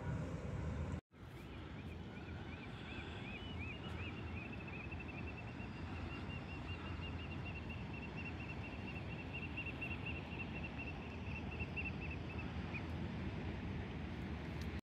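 A bird calling over a steady low wash of surf and wind: short whistled notes, spaced out at first, that quicken into a long rapid trill lasting about eight seconds. The sound cuts out briefly about a second in.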